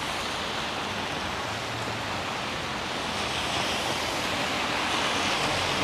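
Heavy typhoon rain falling as a steady hiss, growing a little louder about halfway through.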